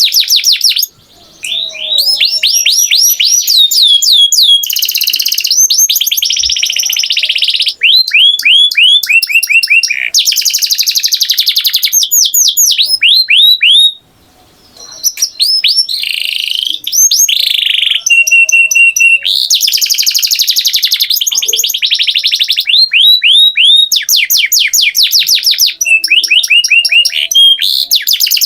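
Domestic canary singing: long, loud song built of rapid trills and rolls of repeated sweeping notes, with a held whistle partway through. The song pauses briefly twice.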